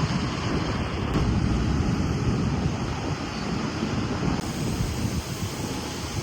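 Wind buffeting the microphone: a steady low rushing rumble with no clear engine note.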